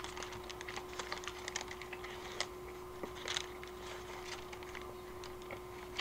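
Faint, irregular clicks and crackles of a person chewing a burger close to the microphone while handling its paper wrapper.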